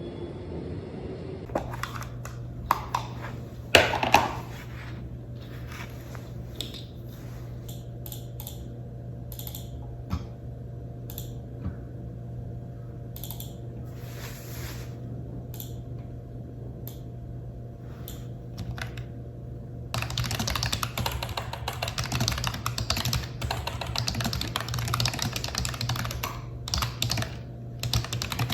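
Typing on a computer keyboard: scattered keystrokes for most of it, then fast, continuous typing from about two-thirds of the way in, over a steady low hum.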